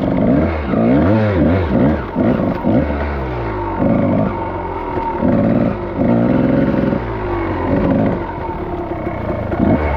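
Dirt bike engine revving up and down under throttle while riding, its pitch rising and falling again and again.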